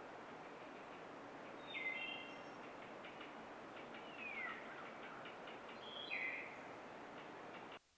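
Birds calling over a steady background hiss: three short calls, about two, four and six seconds in, one sliding down in pitch. The sound cuts off just before the end.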